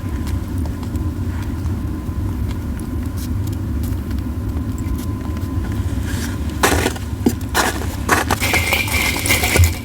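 Japanese yew wood burning in a campfire, crackling with sharp pops that grow thicker in the second half, over a steady low rumble. A thin steady whistle comes in near the end.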